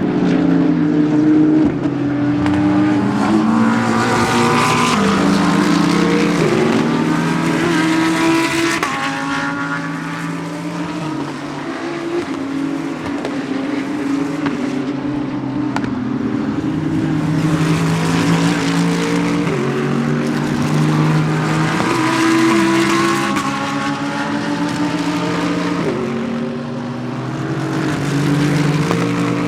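GT3 race cars accelerating past one after another, their engine notes overlapping as each shifts up through the gears, so the pitch repeatedly climbs and then drops back.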